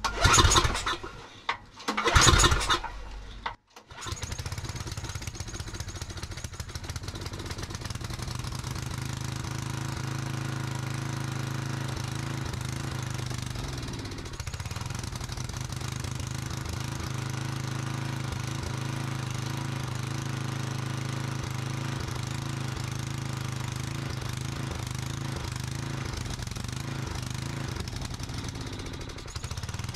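An old portable generator's small carbureted engine is recoil-started with the choke on: two pulls, and it catches about four seconds in, then runs steadily. It runs kind of surging on choke, which the owner puts down to a dirty, non-adjustable carburetor that is finicky about being clean.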